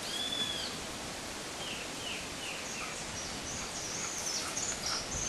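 Small birds calling: a whistled rising-and-falling note near the start, then runs of short falling chirps, over a steady outdoor background hiss.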